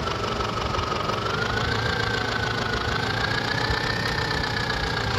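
Massey Ferguson tractor's diesel engine running steadily while the tractor is driven, with a thin high whine that drifts slowly up and down in pitch.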